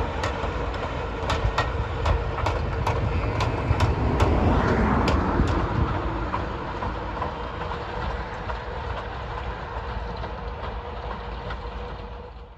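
Class 03 diesel shunter, with its Gardner eight-cylinder engine, running along the line, its wheels clicking over the rail joints. Loudest about four seconds in, then the clicks stop and the engine fades as it moves away.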